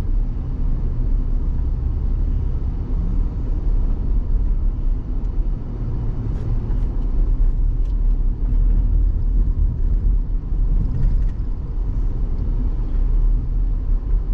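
Vehicle driving on a dirt road, heard from inside the cab: a steady low rumble of engine and tyres, with a few faint ticks and rattles.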